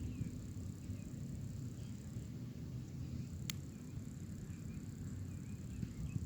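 Outdoor nature ambience: a steady low rumble with faint, scattered high chirps, and a single sharp click about three and a half seconds in.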